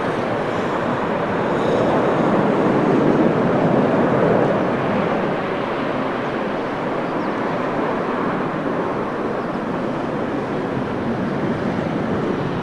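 Jet aircraft engine noise, a steady loud rumble that swells a few seconds in and then eases off slightly.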